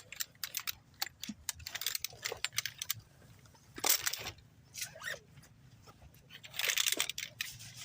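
Camping gear being handled and packed away: scattered clicks and rattles, with two short rustling, scraping bursts about four seconds in and again near the end.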